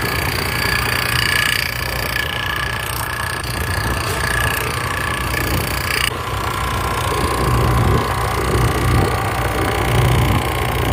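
A machine running with a steady low hum, with a high wavering whine over it that cuts off suddenly about six seconds in.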